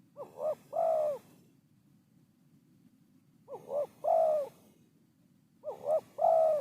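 Spotted dove cooing: three calls a few seconds apart, each two short coos followed by a longer, drawn-out coo.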